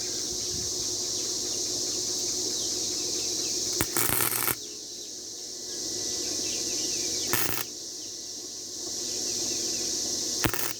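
Three short bursts of welding arc crackle as scrap bedframe steel is tack-welded: a longer tack about four seconds in, then two brief ones about three seconds apart. A steady high insect drone runs underneath.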